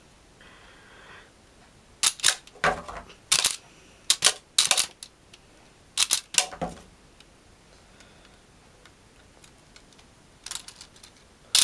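Lego rubber-band gun's plastic firing mechanism clicking as it shoots, with single sharp clicks and short, rapid clusters at irregular gaps. A fast run of clicks near the end sounds like full-auto fire.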